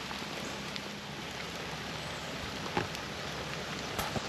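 Light rain falling steadily, with a few single louder drop hits about two-thirds of the way through and near the end.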